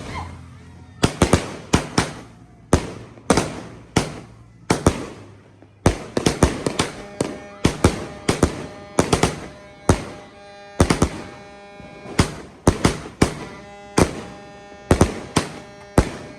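Leegendary Fireworks Orbit Jet 2.0 25-shot cake firing its shots in a rapid series of sharp bangs, often in quick pairs or clusters, with a faint steady tone under the bangs in the middle stretch.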